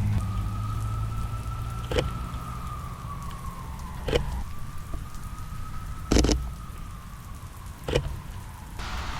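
Steady rain, with four sharp clicks about two seconds apart and a faint tone that twice slides slowly down in pitch. A car engine's low hum fades out in the first few seconds.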